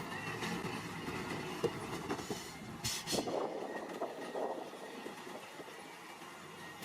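Small bulldozer at work: engine running, with the clanking knocks of its steel tracks and a brief sharp high-pitched scrape about three seconds in. The low engine rumble drops away after about three and a half seconds.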